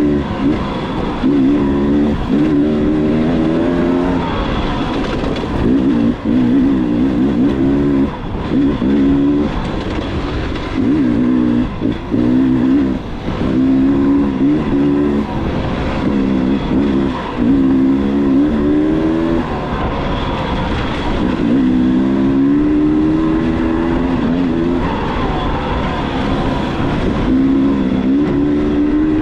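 Dirt bike engine running hard, revving up and down through the gears: the pitch climbs, breaks off and climbs again every second or two as the rider shifts or rolls off the throttle.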